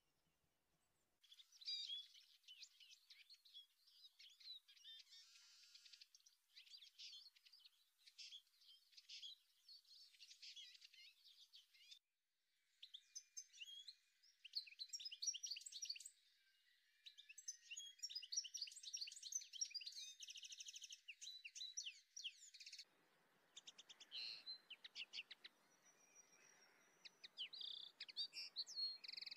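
Small songbirds chirping and singing, many short quick calls overlapping. There is a brief break about twelve seconds in, and a faint hiss joins in near the end.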